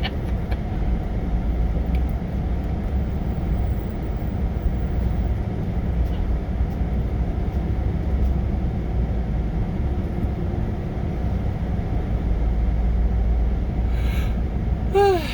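Steady low rumble of a truck's engine and road noise heard from inside the cab while driving slowly. A short falling tone is heard near the end.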